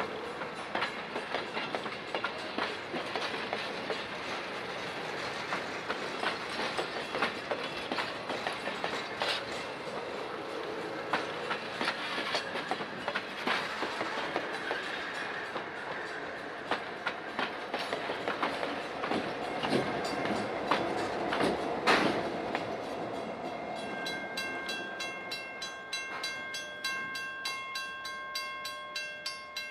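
Passenger train rolling past, its steel wheels clicking over the rail joints in a rapid clickety-clack. The diesel locomotive at the rear end of the train goes by about three-quarters through, the loudest moment. Near the end the train sound dies away and steady ringing tones with a regular beat come in.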